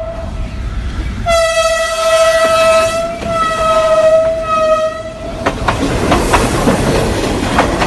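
A toy train engine's electronic sound effect: a long steady horn toot, then a shorter two-part toot, followed near the end by a clattering train-running noise with rapid clicks.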